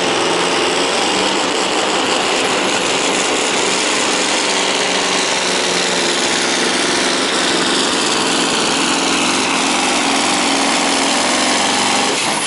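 Scania V8 diesel truck engine running flat out under heavy load, held steadily for about twelve seconds, then dropping off sharply near the end.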